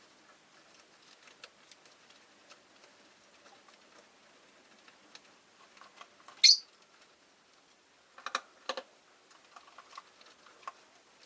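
Rosy-faced lovebird giving a single short, sharp high chirp about six seconds in, over scattered light clicks and taps from the cage. Two louder knocks follow a couple of seconds later.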